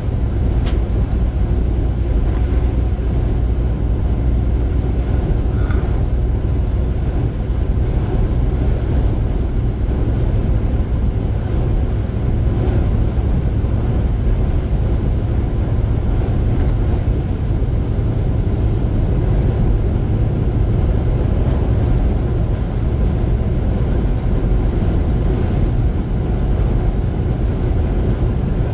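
Steady low rumble of a vehicle driving at highway speed, heard from inside the cab, with road and wind noise. A single sharp click just under a second in.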